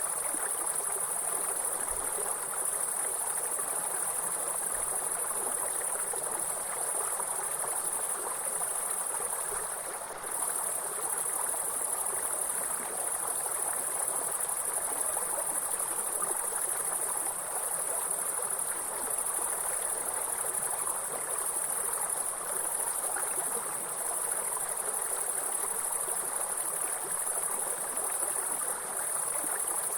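A steady, high-pitched chorus of insects over the even rushing of flowing stream water. The insect drone dips briefly about ten seconds in.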